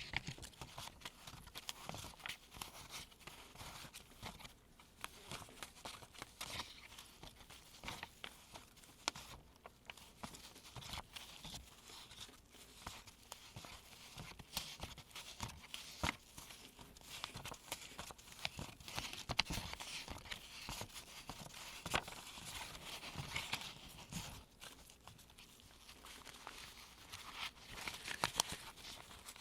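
US one-dollar paper bills rustling and crinkling in gloved hands as they are sorted, with frequent small snaps and taps of the paper throughout.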